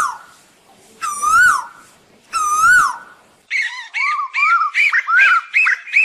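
Asian koel calling: two long whistled notes that rise and then fall, followed by a quick run of short rising-and-falling notes, about three a second.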